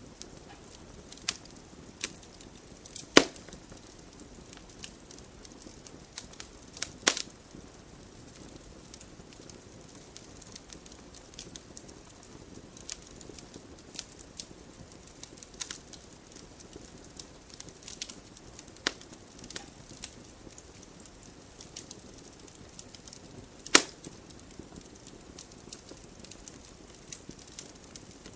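Wood fire burning in a fireplace: a low steady hiss with irregular crackles and sharp pops, the loudest about three seconds in, around seven seconds and near twenty-four seconds.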